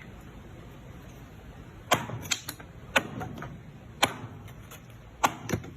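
Knife blade cutting into metal: a run of sharp metallic clicks and snaps starting about two seconds in, irregular, some in quick pairs.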